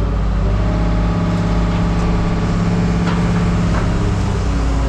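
An engine running steadily, a low even drone with a few faint clicks over it.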